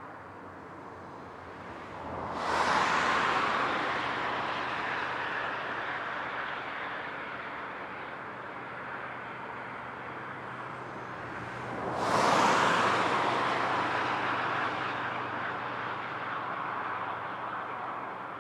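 Highway traffic: two vehicles pass close by, about 2 seconds in and again about 12 seconds in. Each rises quickly as a rush of tyre and engine noise and fades away slowly, over a steady background of more distant traffic.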